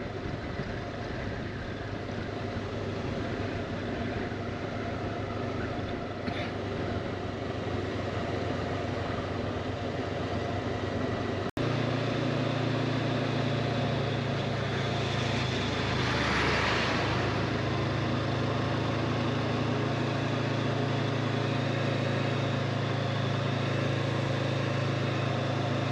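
Motorcycle engine running steadily under way, mixed with wind and road noise. Just before halfway the sound breaks off abruptly and picks up again as a stronger, deeper engine drone. A brief rushing swell comes a few seconds later.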